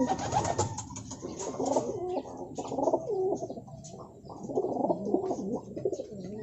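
Racing pigeons cooing in a loft, several birds calling over one another in repeated low warbling coos, with a few light clicks and flutters.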